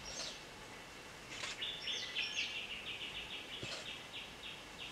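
Wild forest birds calling. A few short, high falling whistles come first, then from just over a second in a rapid series of short repeated notes runs for about three seconds.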